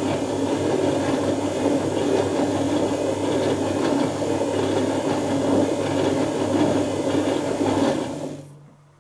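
Dyson Contrarotator CR01 washing machine turning its drums during the wash: a steady motor hum with the churning of water and laundry, which stops about eight and a half seconds in.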